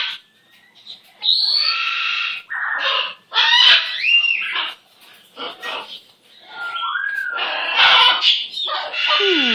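Pet parrot squawking and chattering: a string of harsh calls, some with short rising and falling whistles, broken by brief pauses.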